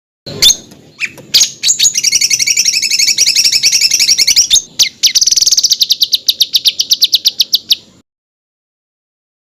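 Songbird singing 'tembakan': a few sharp single notes, then two fast, harsh trills of rapidly repeated high notes, about ten a second, each lasting two to three seconds with a short break between them. It cuts off suddenly about eight seconds in.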